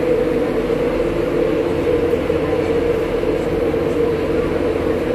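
Passenger train standing at the platform, its engine running with a steady droning hum over a low rumble.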